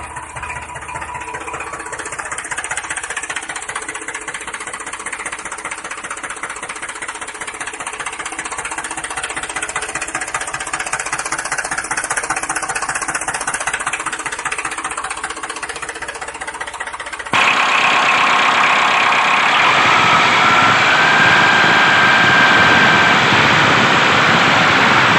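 A motor running with a fast, even chatter; about 17 seconds in the sound cuts abruptly to a louder, harsher running noise.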